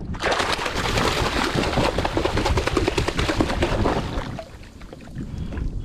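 Loud splashing and churning of water for about four seconds, stopping just past the middle.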